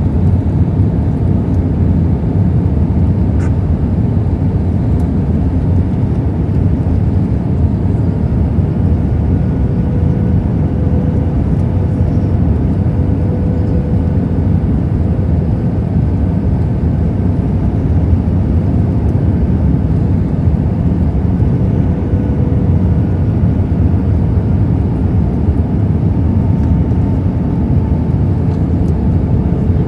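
Airbus A319 cabin noise in flight: a steady, even rush of airflow and engine noise, heaviest in the low end, with a faint steady whine coming and going.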